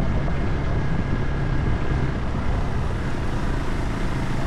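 Steady vehicle engine and road noise from a vehicle on the move, with some wind on the microphone.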